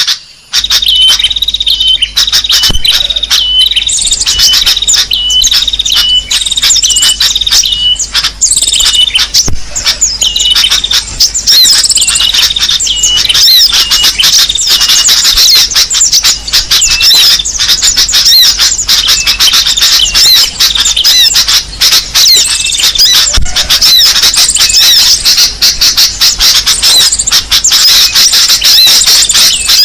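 Loud, dense chorus of small songbirds chirping and trilling, played as a bird-lure call to draw in small birds. It begins with one short chirp repeated about twice a second, and more birds join about four seconds in. A faint steady low hum runs underneath.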